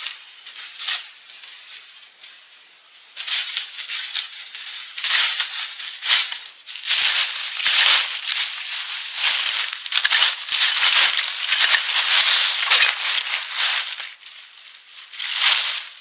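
Dry leaves and brush rustling and crackling in dense, irregular bursts. It is quieter for the first three seconds and then loud, with a brief lull shortly before the end.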